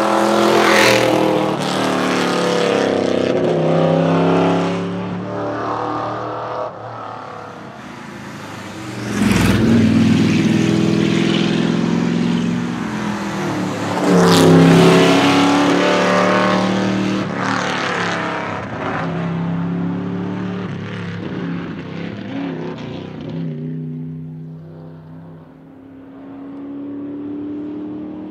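1963 Ford Galaxie 500 race car's big-block V8, said to be the 7.0-litre Ford 427, accelerating hard up a mountain hillclimb. The revs climb and drop again and again through gear changes, loudest as the car passes close about nine and fourteen seconds in, and the engine sounds more distant near the end.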